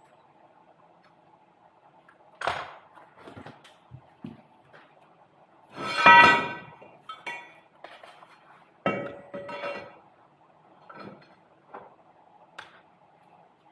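Steel pieces clinking and clanking as they are handled and set down, with scattered knocks. The loudest is a ringing clang about six seconds in, and another comes about three seconds later.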